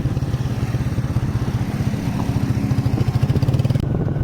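Motorcycle engine running steadily while riding, a rapid even firing pulse with road and wind hiss over it. The bike is a Chinese-made motorcycle whose timing chain has started to make noise.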